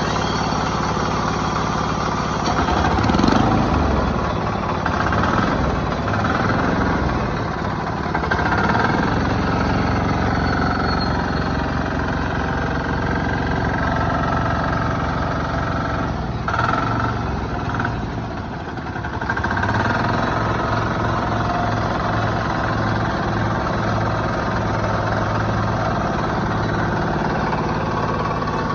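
Kama engine of a power weeder running steadily.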